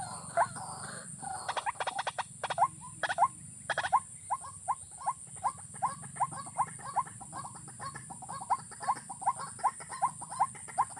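A bird calling in a steady series of short, rising notes, about three a second. It is preceded a second or two in by a flurry of rapid clicks. A steady high buzz runs behind it.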